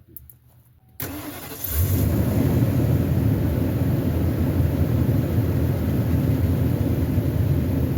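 Motorhome engine cranked over after an oil change and catching about a second later, then running steadily at idle, started with the freshly fitted oil filter still empty.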